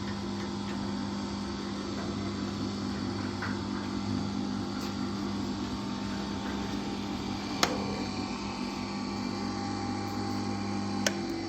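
Electric motor of a knife-grinding machine running with a steady hum. There is a sharp click about two-thirds of the way in, and another near the end, when the hum stops.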